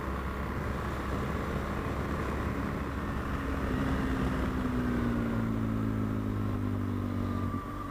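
BMW GS adventure motorcycle running along an open road, heard from the rider with wind noise and a thin wind whistle. The engine note falls for a couple of seconds in the middle, settles steady, and dips briefly near the end, like a gear change.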